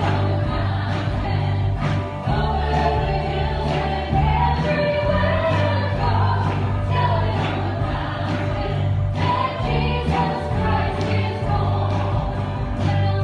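Worship music: a band with singing voices, a steady low bass line and a regular drum beat.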